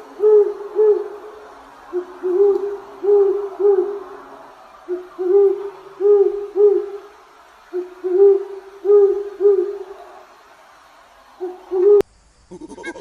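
An owl hooting: short hoots in groups of three or four, repeated about five times with brief pauses between the groups. Near the end the sound cuts off and a different bird's calls begin.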